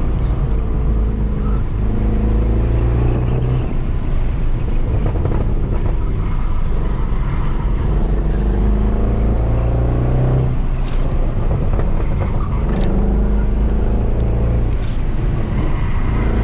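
Mercedes C63 AMG's 6.2-litre V8, with its secondary cats and resonators deleted, running under hard throttle. The revs climb, drop back and climb again about five times in a row.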